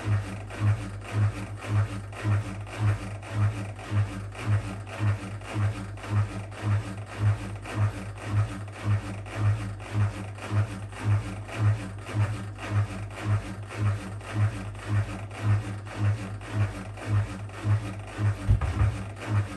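Whirlpool WWDC 7440 front-loading washing machine in its spin cycle, its drain pump humming and chugging in a steady pulse about twice a second.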